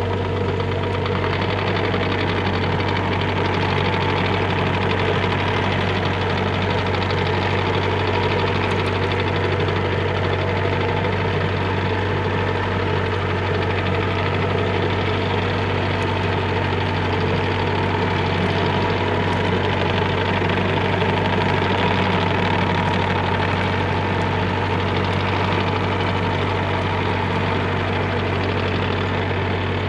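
Bobcat E35 mini excavator's diesel engine running at a steady speed.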